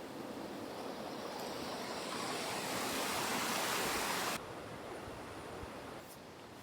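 Rushing river water, a steady rush that swells over the first few seconds and then drops suddenly to a quieter rush.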